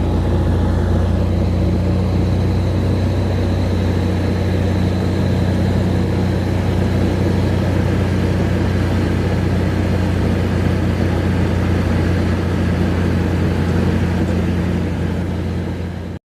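A loud, steady engine drone: a deep hum with a faint high whine above it. It eases slightly near the end, then cuts off abruptly.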